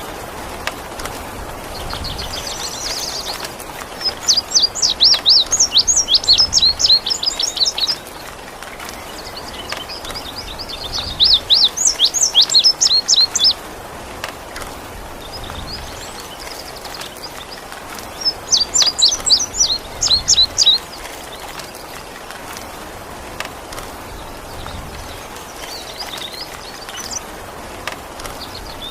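Indigo bunting singing: three loud phrases of rapid, high, sweeping notes, each lasting three to four seconds, with fainter phrases between them. A steady hiss of rain water runs beneath the song.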